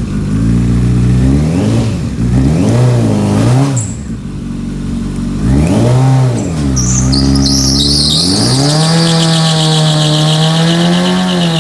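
Four-cylinder superbike engine through an Akrapovic exhaust, blipped up and down several times, then held at high revs from about eight seconds in while a loud tyre hiss joins it: the rear tyre spinning in a burnout.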